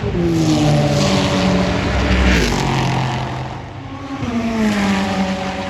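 Race cars passing at speed one after another, each engine note dropping in pitch as it goes by, with a fresh pass about two seconds in and another near the end.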